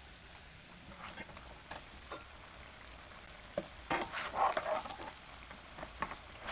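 Grated-potato pancake shallow-frying in hot oil in a pan: a steady fine sizzle with scattered pops and crackles. A louder flurry of crackling comes about four seconds in, when a utensil moves against the pancake.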